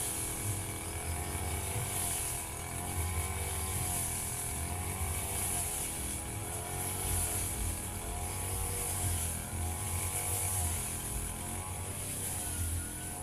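Firman FGB 528 brush cutter's petrol engine running steadily under load, its pitch rising and dipping slightly as the cutting head works through grass.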